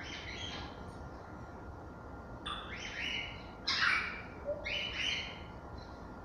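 African grey parrots giving four short, harsh calls, one right at the start and three more in quick succession from about two and a half seconds in.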